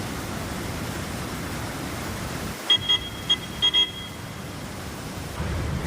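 Steady rushing roar of a waterfall, with a quick run of about five short high beeps about three seconds in.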